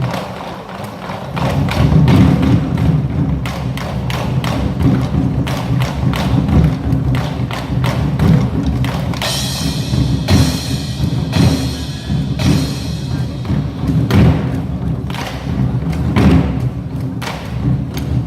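Ensemble nanta drumming: many drums struck hard and fast in a driving rhythm over music, with a brighter hissing stretch between about nine and twelve seconds in.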